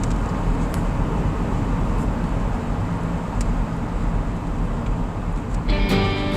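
Steady road and engine rumble inside a moving car's cabin. Near the end, guitar music comes in over it.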